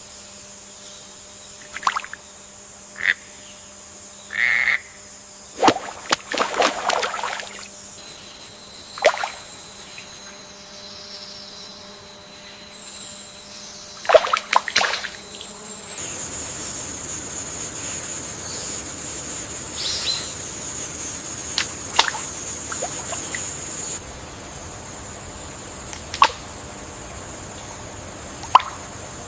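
Rainforest ambience: a steady high-pitched insect drone with scattered short frog and bird calls and clicks. The background changes abruptly every eight seconds or so.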